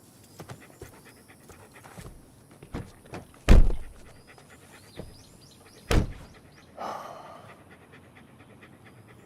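A dog panting, with two heavy thuds about 3.5 and 6 seconds in, the first louder, like car doors being shut.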